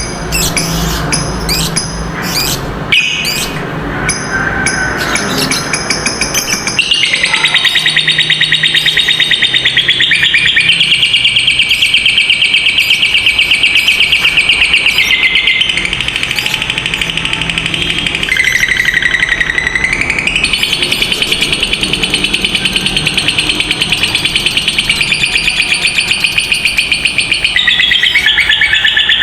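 Lovebirds chirping in short calls, then one breaking into the long 'ngekek' trill about seven seconds in: a very fast, rattling, high-pitched chatter held for over twenty seconds, stepping down and back up in pitch a few times.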